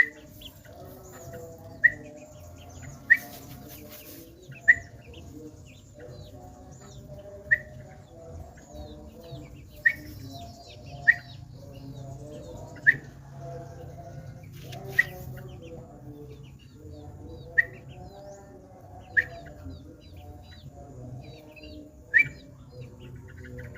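Birds calling: one bird gives a short, sharp call again and again, about every one to three seconds, over many fainter chirps and a low steady hum.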